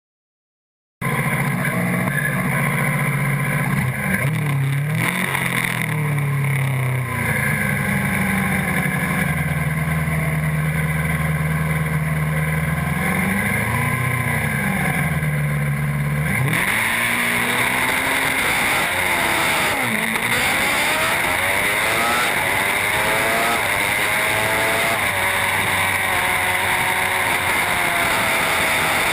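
Superbike racing motorcycle engines, starting suddenly about a second in. One engine holds a steady pitch with a few throttle blips, then about halfway through the sound changes to many engines revving up and down over a loud hiss.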